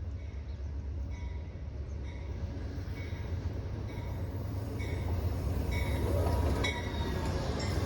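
Amtrak regional train running past on the track: a steady low rumble that swells louder about six seconds in, with small high ticks recurring less than once a second.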